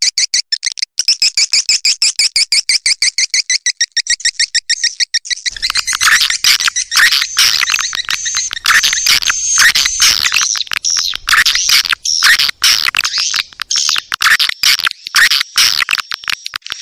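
Swiftlet calls of the kind played as a lure for swiftlet houses. For the first five seconds or so they come as a rapid, evenly spaced train of buzzy chirps, about nine a second. Then they give way to a dense, overlapping chattering of many swiftlets.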